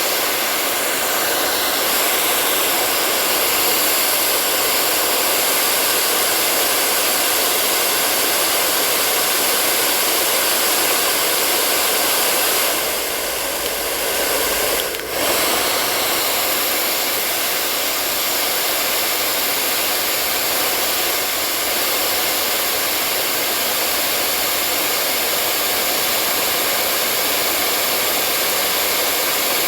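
Hair dryer running steadily: a continuous blowing hiss with a faint steady motor whine, dipping briefly in level about halfway through.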